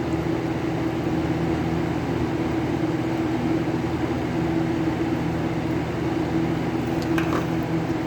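Steady mechanical hum in the room, even and unchanging, with a few faint clicks near the end.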